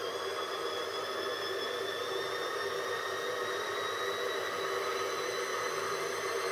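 Washing machine motor spinning the homemade band saw's wheels, a steady whir with a faint whine slowly rising in pitch as it gathers speed.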